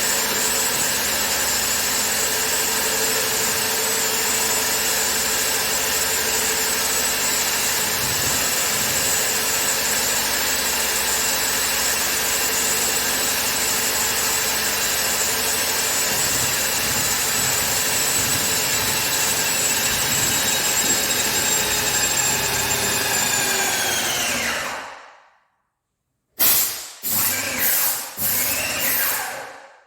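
Electric power tool's motor running steadily at full speed, then switched off and spinning down to a stop about 25 seconds in. After a short pause come a few brief trigger pulls, each spinning up and dying away, and one more near the end.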